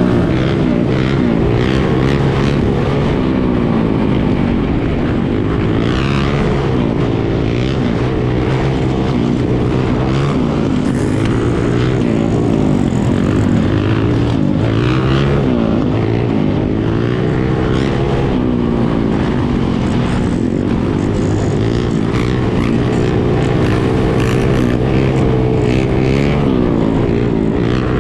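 Dirt bike and ATV engines running, revving up and down over and over.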